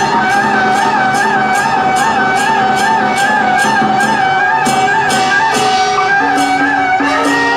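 Traditional procession music: a reed wind instrument plays a wavering, ornamented melody over steady percussion strikes, about two and a half a second.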